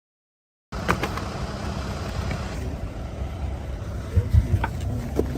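Steady low rumble of a running vehicle, starting abruptly after a moment of silence, with a few light clicks and knocks.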